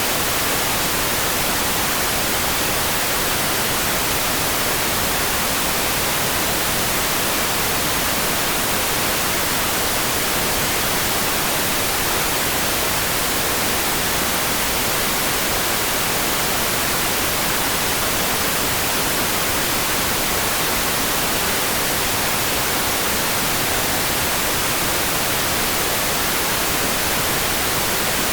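Steady, even hiss of rain with no separate drops, thunder or changes, close to white noise.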